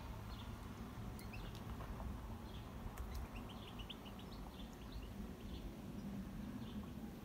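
Small birds chirping, short high calls scattered throughout, with a quick run of chirps about three seconds in, over a steady low rumble.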